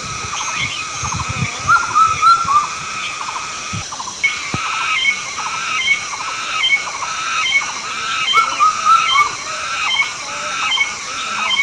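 A chorus of short animal calls repeating about two or three times a second, over a steady high-pitched hiss.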